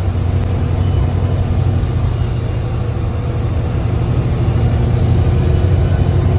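Mercedes-Benz bus engine running under load, heard from inside the driver's cabin as a steady low drone that grows slightly louder near the end.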